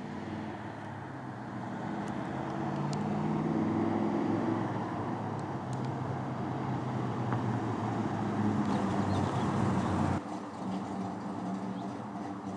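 1968 Plymouth Road Runner's 383 big-block V8 running as the car approaches, getting louder over the first few seconds. About ten seconds in, the engine sound drops off abruptly to a lower level.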